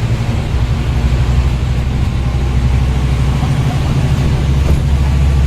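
Scania N230UD bus's five-cylinder diesel engine running under load, a steady low drone that grows stronger and more even about five seconds in.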